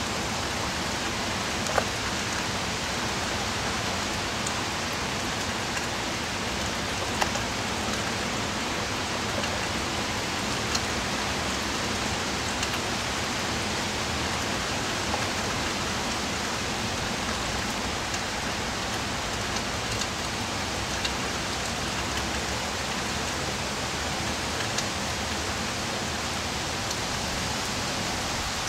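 Steady rain from Hurricane Irene, an even hiss with a sharp tick of a single drop now and then.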